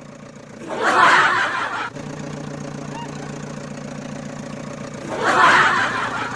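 A vehicle engine idling with a steady low hum, broken twice by a loud rushing noise: once about a second in, lasting about a second, and again near the end.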